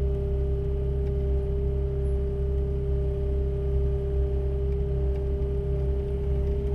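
Heavy diesel engine of road-works machinery running steadily: a low rumble with a constant tone over it.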